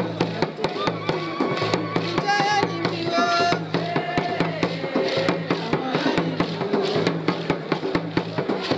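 Traditional dance music: fast, dense drumming with a high, wavering melodic line over the drums.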